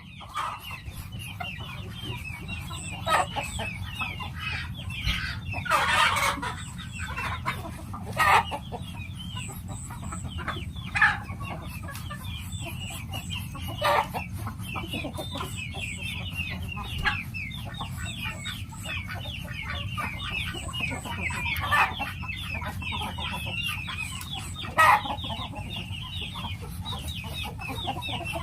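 Chickens clucking in a yard, with louder calls every few seconds over a continuous high chirping and a steady low hum.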